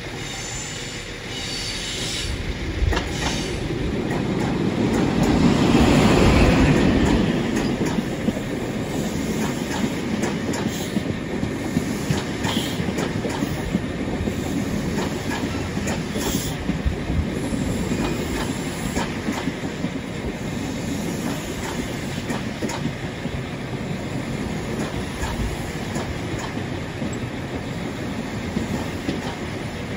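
InterCity 125 high-speed train running past at low speed: the Class 43 diesel power car's engine builds to its loudest about six seconds in, then the Mark 3 coaches roll by with repeated wheel clicks over rail joints and a few short high squeaks.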